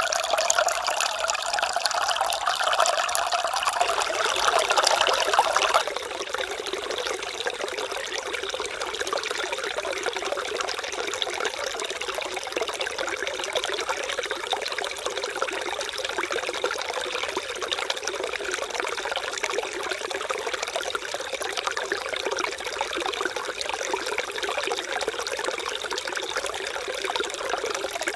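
Mountain valley stream running and babbling over rocks. About six seconds in the water sound drops abruptly to a quieter, thinner trickle that continues steadily.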